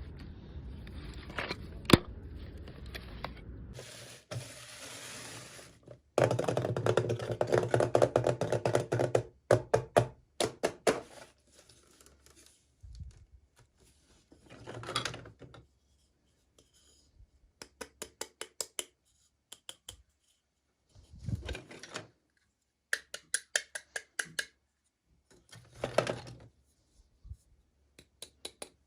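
Hands unwrapping and handling small plastic toy packaging: a loud stretch of dense crinkling, then short rustles and runs of quick clicks and taps, with a sharp click about two seconds in.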